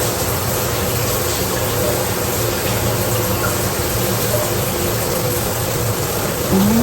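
Steady rush of running water, as from a shower or tap left running in a small bathroom.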